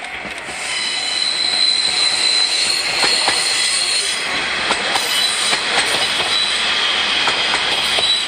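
Two-car KiHa 40-series diesel railcar train passing close by, getting louder about half a second in. Its wheels squeal with a high steady whine through the first half, over scattered clicks as the wheels cross the rail joints.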